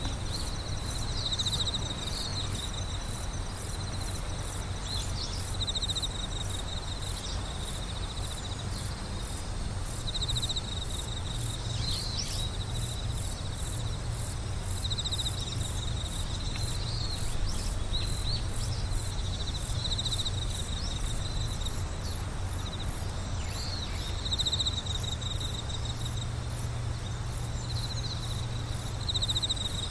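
Chorus of singing insects, crickets among them: short bursts of rapid trilling recur every second or two, over a continuous very high, fast pulsing. A steady low rumble lies underneath.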